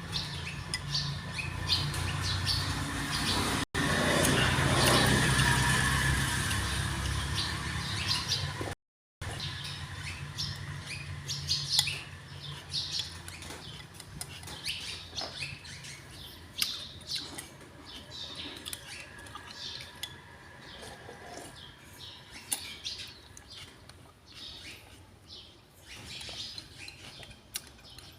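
Small birds chirping in many short, high calls, with scattered light clicks. A louder, noisier stretch with a low hum in the first third is cut off by a brief dropout.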